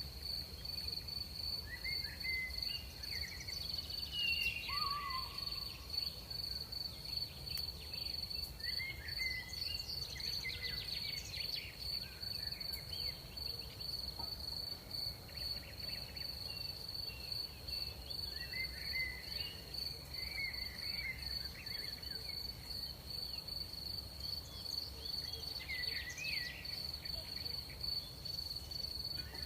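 Night chorus of crickets: a steady, unbroken high trill. Short chirping calls come and go every few seconds over a low, steady background rumble.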